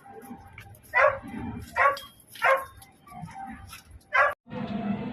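A pet animal giving four short, high calls, unevenly spaced, the last one near the end.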